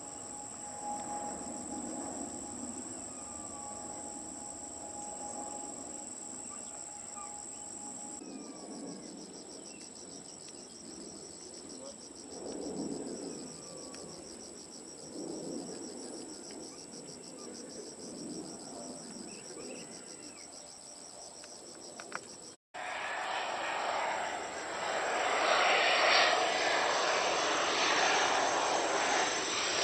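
Insects trilling steadily in a high, thin tone that turns to a rapid pulsing chirp about eight seconds in. After a sudden cut about three-quarters of the way through, a jet airliner's engines come in and grow steadily louder.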